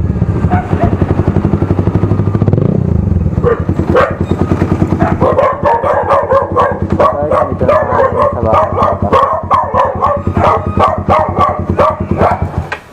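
Motorcycle with a loud open aftermarket exhaust running steadily for the first few seconds, then a dog barking rapidly and continuously, about three to four barks a second, until near the end.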